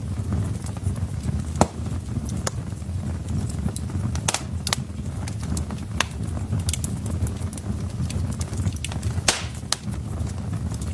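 Wood fire burning in a fireplace: a low steady rumble of the flames with irregular sharp crackles and pops from the burning logs, a sharp pop about a second and a half in and a longer one near the end.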